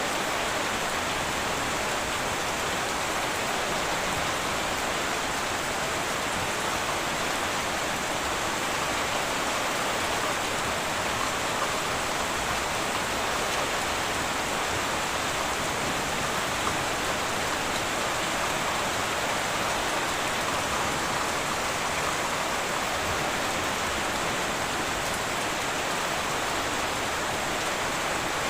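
Heavy rain falling steadily on a tin roof, an even dense patter with no thunder.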